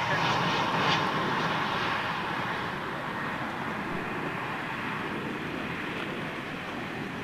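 Jet airliner engines passing close, the noise coming in suddenly, loudest about a second in, then easing off to a steady, lower rush.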